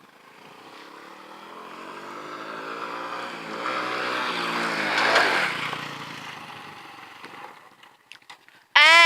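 A motorbike passing by. Its engine note grows louder for about five seconds, then drops in pitch and fades as it moves away. Right at the end comes a loud, short, steady beep.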